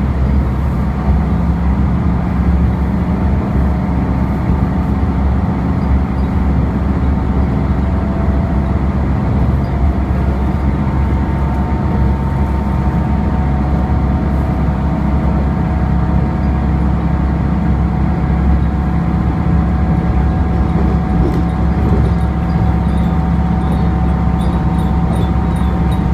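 Asa Seaside Railway diesel railcar running, its engine droning steadily with a faint steady whine above it.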